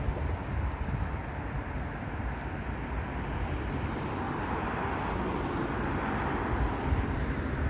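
Steady street traffic noise with no siren, swelling slightly in the middle as a vehicle passes.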